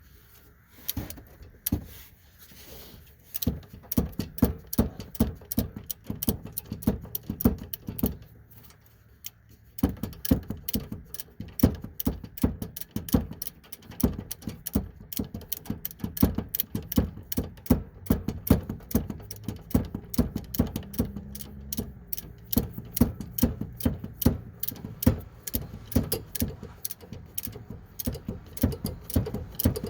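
Socket ratchet clicking through rapid short strokes as it tightens the sway bar link nut, with a brief pause about nine seconds in.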